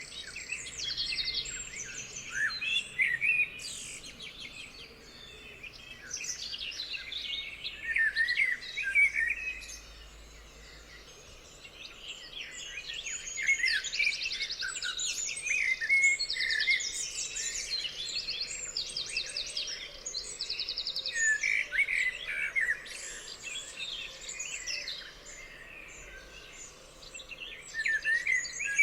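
A chorus of several songbirds singing and chirping at once, with busy overlapping phrases and rapid trills; the activity thins out briefly around the middle before picking up again.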